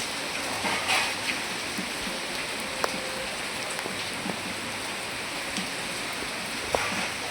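Steady heavy rain falling, with scattered louder drops ticking on nearby surfaces.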